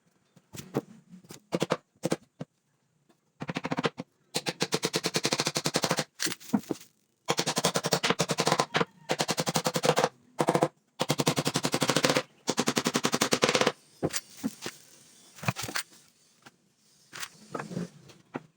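Impact driver hammering screws into wood in short bursts of rapid, evenly spaced clacks, each lasting one to two seconds with brief pauses between, and a few loose clicks before the first burst and after the last.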